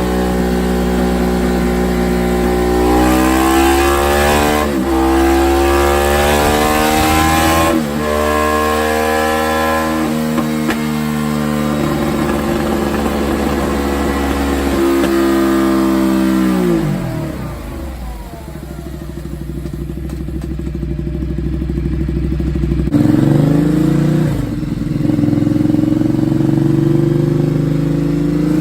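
Ducati Multistrada 1200's L-twin engine run on a dyno, open and loud through an SC-Project exhaust with the dB killer removed. It pulls up through the revs with two short breaks at gear changes and holds high. Past the middle it drops steeply back to a low idle, then revs up again near the end.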